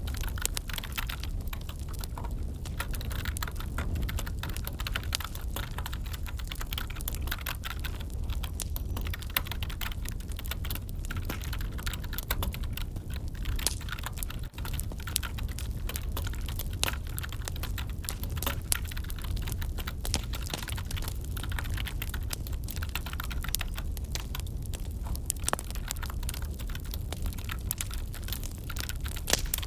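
Continuous typing on a computer keyboard, a dense run of light key clicks, over the steady low sound of a wood fire burning in a fireplace.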